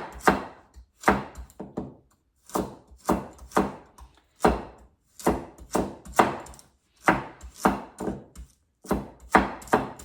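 A kitchen knife chopping carrot on a cutting board: a run of sharp, uneven chops about two a second, with a couple of brief pauses.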